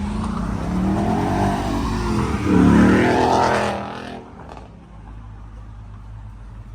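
A car engine passing close by, growing louder with its pitch bending up and down, then fading out about four seconds in. A low steady engine hum continues underneath.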